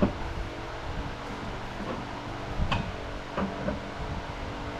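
Steady mechanical hum with a few short knocks and clinks, one right at the start and a couple more in the middle.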